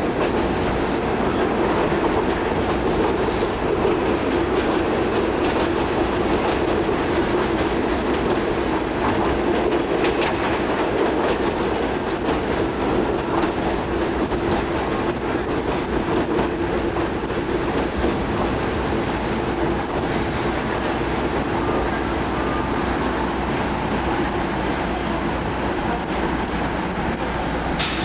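State Railway of Thailand diesel railcar running steadily, heard from inside the carriage: a continuous rumble of wheels and engine with the clickety-clack of wheels over the joints of old jointed track laid with short 10 m rails.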